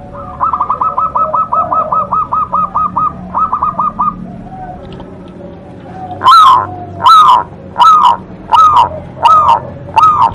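Zebra dove (perkutut) singing. First comes a quick run of short, soft notes for about four seconds. From about six seconds in it gives a series of loud coos, about one every three-quarters of a second.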